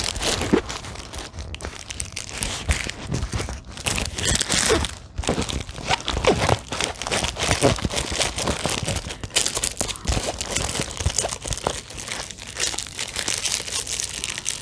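Plastic packaging of a diamond painting kit crinkling and rustling as it is handled and unpacked, with irregular crackles and small knocks.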